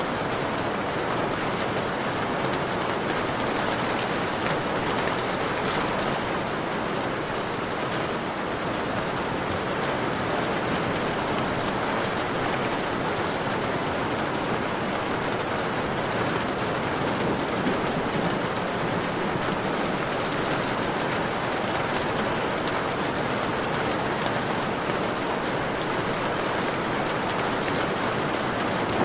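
Steady rain beating on a window, with many individual drops ticking against the glass over an even wash of rainfall.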